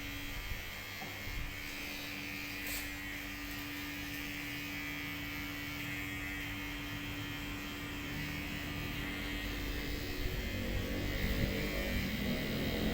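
A small electric motor humming steadily, stopping about ten seconds in, after which a lower, uneven hum grows louder.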